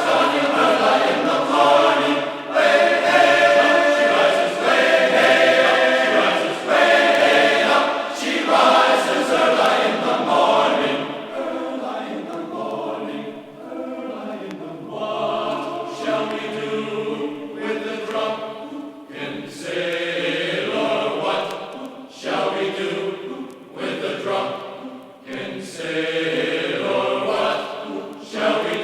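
Background music of a choir of voices singing in long sung phrases.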